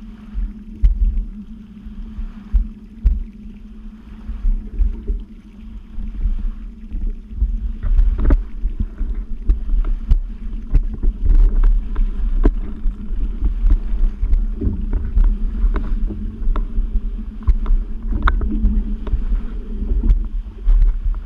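Yamaha Waveblaster's 701 two-stroke twin, fitted with a Riva pipe and waterbox, running at a steady pitch on the water, with water slapping and wind buffeting the microphone.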